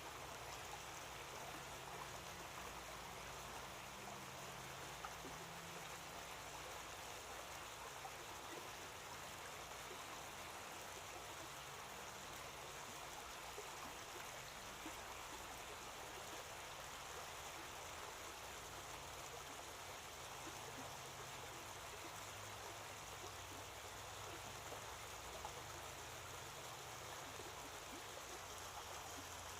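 Steady, faint rushing of running water, with a few light ticks.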